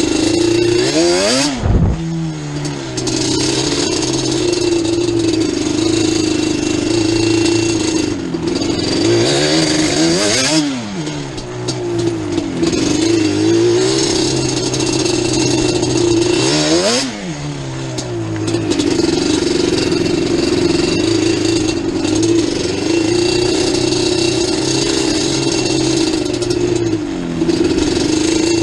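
Yamaha Banshee 350's twin-cylinder two-stroke engine running steadily under throttle as the quad is ridden. Three times, about a second and a half in, about ten seconds in and about seventeen seconds in, the revs drop briefly and climb back. A single low knock comes right after the first drop.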